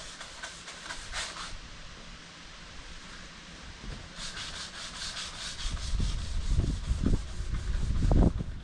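Sandpaper rubbed by hand in quick back-and-forth strokes, in two short spells. In the second half, low rumbling thuds take over, loudest just before the end.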